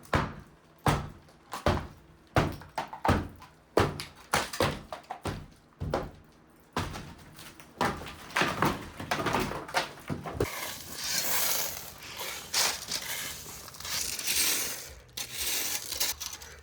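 Drywall demolition: more than a dozen sharp thuds and crunches of breaking drywall, one or two a second. About ten seconds in, this gives way to a steadier scraping crunch of a shovel working through loose debris.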